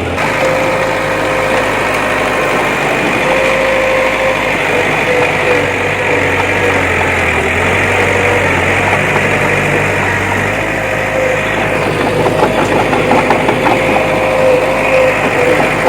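Bulldozer diesel engine running steadily with a held whine over a low hum. From about twelve seconds in it gets a little louder, with a fast rattle.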